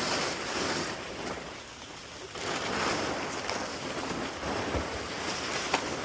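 Rain falling with wind noise on the microphone, a rushing hiss that swells and eases; a single sharp knock near the end.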